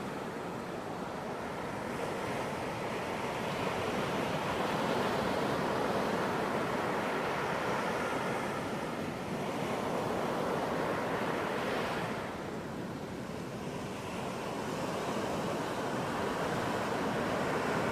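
Ocean surf on a beach: waves breaking and washing in with a steady rush that swells and eases every few seconds.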